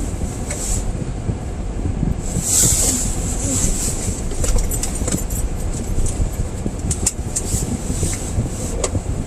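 Car on the move in deep snow: a steady low rumble, with a short burst of hiss about two and a half seconds in and a few light clicks.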